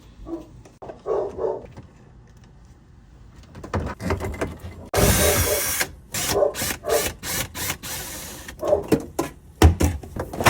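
A dog barking a few times, with a one-second rushing hiss about halfway through and a quick run of clicks and knocks after it.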